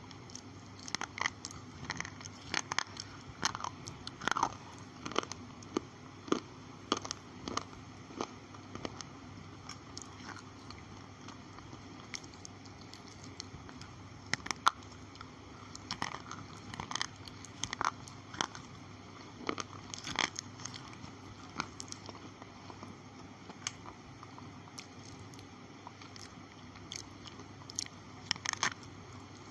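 Slate pencils being bitten and chewed: sharp, irregular crunches that come in clusters with short pauses between, over a steady background hum.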